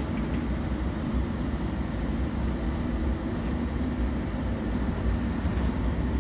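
Passenger train running at steady speed, a continuous low rumble from the wheels and carriage heard from on board.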